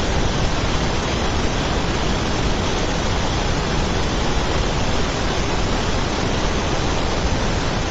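A steady, even rushing noise with no tone or rhythm in it.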